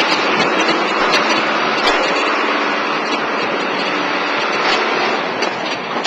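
Steady, loud running noise from a vehicle engine or machinery: an even hiss with a faint low hum underneath and a few faint clicks.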